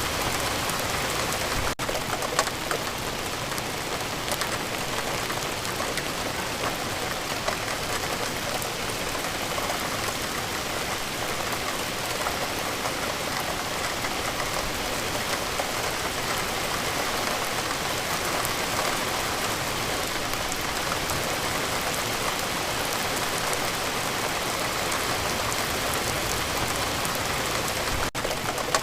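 Steady rainfall, an even hiss of rain on surfaces with dense patter of individual drops. There are two momentary breaks in the sound, about two seconds in and near the end.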